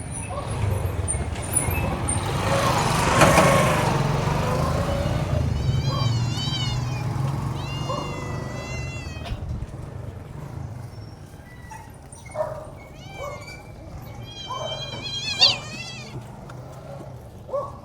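Cats meowing several times, with longer wavering meows about six, eight and fifteen seconds in and shorter mews between, over a steady low rumble.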